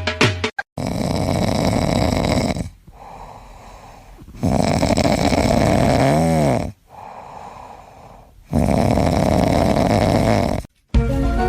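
A sleeping pet snoring loudly: three long snores of about two seconds each, with quieter breaths in between.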